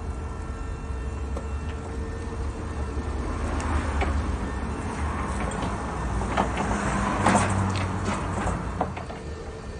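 Lansing electric counterbalance forklift truck working: a steady low hum, with rattling and scattered clanks that build up, are loudest about seven seconds in, then ease off.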